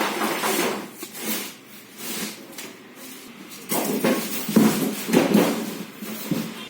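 Handling noises: items being picked up, moved and set down, with irregular knocks, clatter and rustling in two busy spells, the second starting near the middle.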